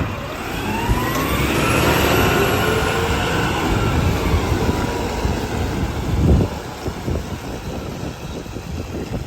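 Garbage truck's engine and hydraulics revving up and back down in a rising then falling whine as the packer cycles, over a steady low rumble. A thump comes about six seconds in.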